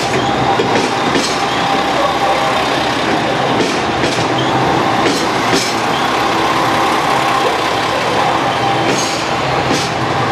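JR Shikoku limited express train running past along the platform: a steady rolling noise with scattered sharp clacks as the wheels cross rail joints.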